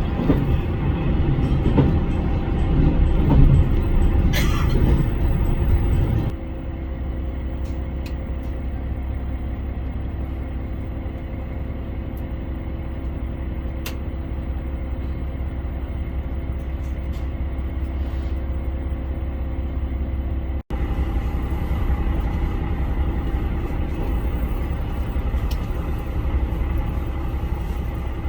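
Inside a HOT7000 series diesel railcar: steady low rumble of the engine and running gear. It is louder and busier for the first six seconds, then drops abruptly to a steadier drone with a faint hum.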